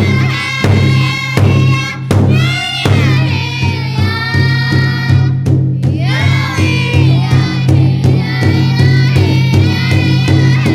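A group of voices singing in high, sliding lines over a steady drumbeat.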